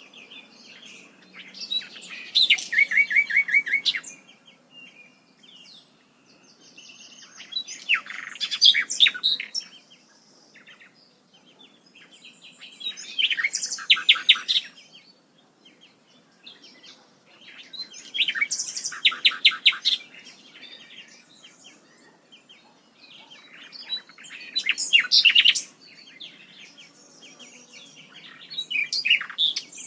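A songbird singing the same kind of phrase over and over, a burst of about two seconds roughly every five to six seconds, each one a quick run of high notes and rapid trills.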